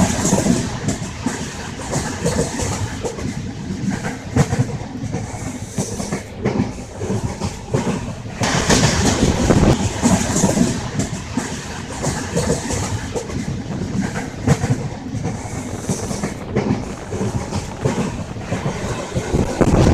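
Passenger express train running, heard from on board: a steady rumble and rush with the wheels clacking over rail joints, growing louder for a few seconds around the middle.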